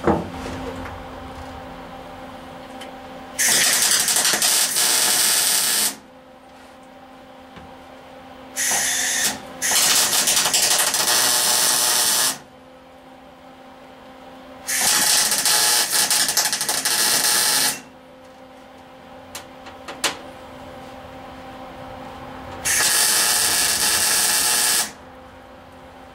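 MIG welder arc on thin sheet-metal cab panels, in five bursts of hissing crackle that start and stop abruptly, most two to three seconds long with one short burst, over a steady hum. The welder has just reversed the wire polarity, and he is unsure whether burn-through and poor welds come from a bad ground.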